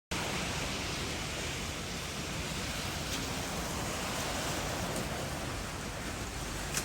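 Hail and rain falling heavily in a dense, steady hiss, with a few sharper ticks of single hailstones striking.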